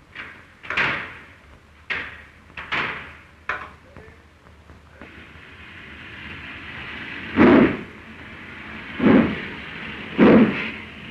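Five sharp slams in quick succession, carriage doors being shut before departure. Then steam begins to hiss and a steam locomotive starts its train away, with three heavy exhaust beats that come closer together as it gathers speed.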